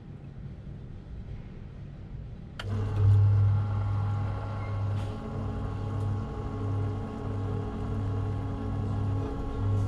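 Air-conditioner condensate pump motor switching on about two and a half seconds in and running with a steady electric hum, set off by water poured into its reservoir. It is lifting the water away, the sign that the pump works.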